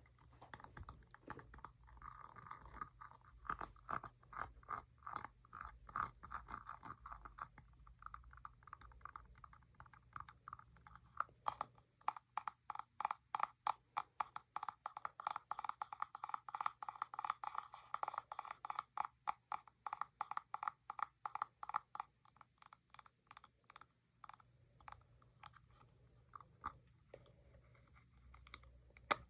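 Fingernails tapping and scratching on makeup packaging: a scratchy, tapping stretch, then from about a third of the way in a run of quick, even taps, several a second. The taps thin out to a few soft ones near the end.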